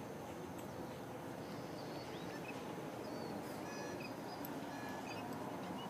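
Outdoor ambience: a steady, even background noise with a few short, scattered bird chirps.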